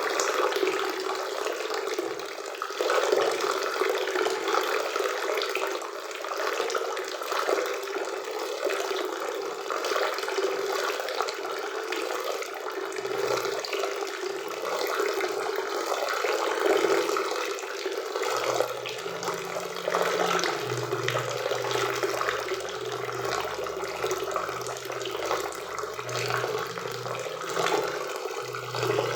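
Waterfall and river water rushing in a steady, unbroken wash.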